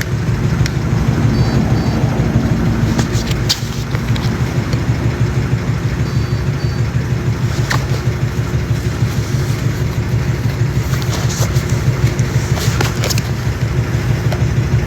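A motor running steadily with a low, fast-pulsing hum, with a few short clicks over it.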